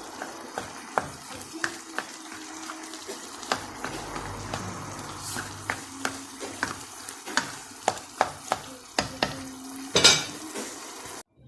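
Chicken keema sizzling as it fries in a pan while a spoon stirs it, knocking against the pan about twice a second. There is a louder scrape about ten seconds in, then the sound cuts off suddenly.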